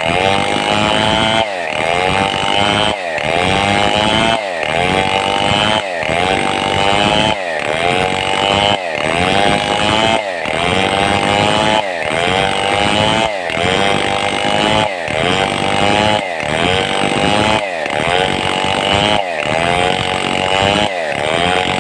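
Stihl 070 two-stroke chainsaw sawing a mahogany log lengthwise into planks. The engine note repeatedly dips under load and then climbs back up, about every second and a half.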